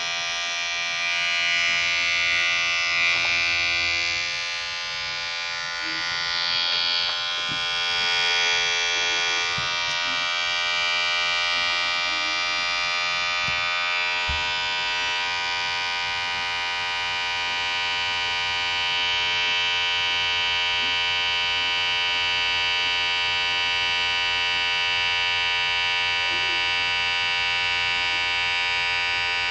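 Electric hair clipper running with a steady vibrating buzz, its tone shifting a little during the first ten seconds and then holding steady.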